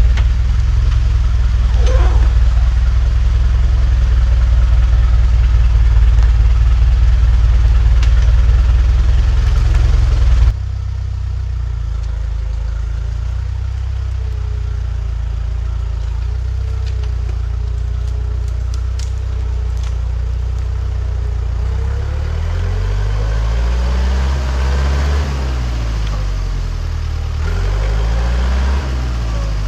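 Engine of a heavy work machine running steadily. About ten seconds in the sound cuts abruptly to a quieter engine note, which later revs up and settles twice.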